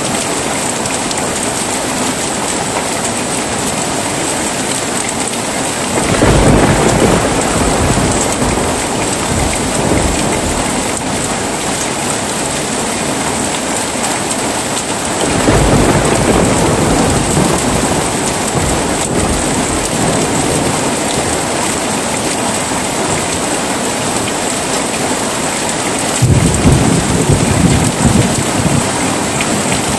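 Heavy rain falling steadily as a constant hiss, with three rolls of thunder rumbling for a few seconds each: about six seconds in, about fifteen seconds in, and near the end.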